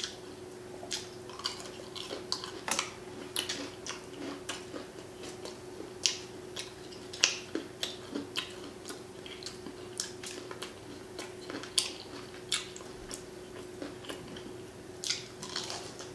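Close-miked mouth sounds of someone eating fast food: irregular wet chewing clicks and lip smacking, with a steady faint hum beneath.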